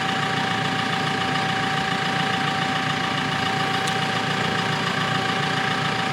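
Engine of a lever-operated lifting machine idling steadily, with a constant high whine over the engine noise.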